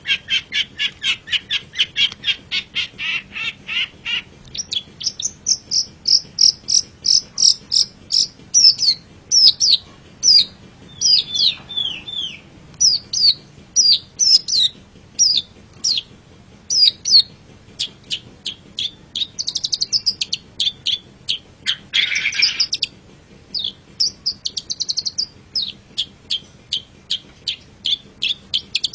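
Long-tailed shrike (cendet) singing: a fast run of sharp chattering notes for about four seconds, then a string of quick, high, down-slurred whistled notes. A harsh scratchy note comes about 22 seconds in, and rapid chatter returns near the end.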